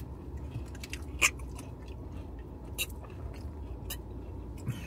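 Eating and drinking sounds: chewing with a few sharp mouth clicks, over a low steady rumble in a car cabin.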